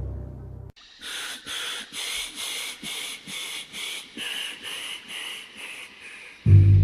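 An animal calling: a series of about a dozen short raspy calls, a little over two a second, at a fairly high pitch.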